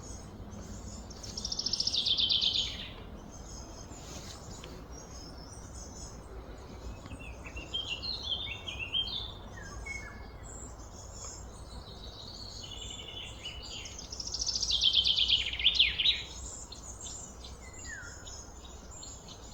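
Small birds singing: two loud, rapid trills that fall in pitch, each about a second and a half long, one near the start and one near the end, with scattered chirps in between over a steady low background hum.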